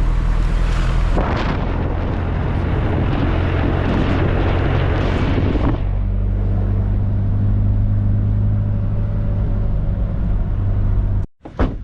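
Truck engine running steadily while driving, heard from inside the cab, a low drone under road noise. From about a second in to about six seconds a louder rushing noise lies over it, then the engine drone carries on alone until it cuts off abruptly near the end.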